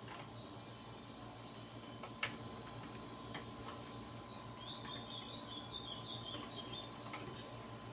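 Faint, scattered clicks and knocks of PS3 console parts being handled and fastened back in place, with a brief run of high chirping about halfway through.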